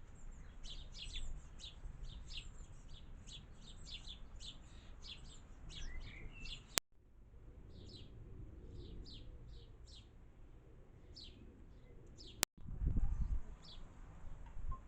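Garden birds chirping: a rapid series of short, high, down-slurred notes, denser in the first half. Two sharp clicks cut in where clips are joined, and a low thump follows the second one near the end.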